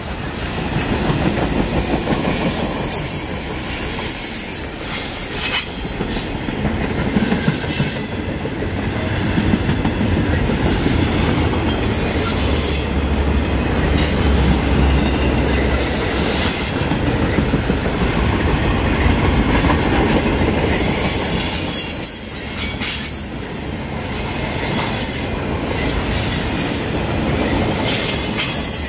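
Railroad cars of a long train rolling past close by: steady wheel-and-rail rumble with repeated clicking and clattering over the rail joints. Short high-pitched squeals come and go.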